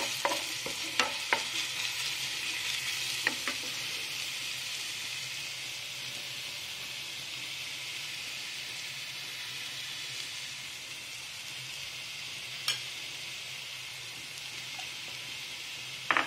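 Minced garlic sizzling in a little oil in a nonstick frying pan: a steady hiss that eases slightly as it goes on. A wooden spatula knocks against the pan a few times in the first few seconds.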